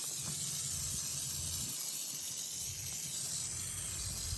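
Aerosol can of heavy-duty oven cleaner spraying in a steady hiss.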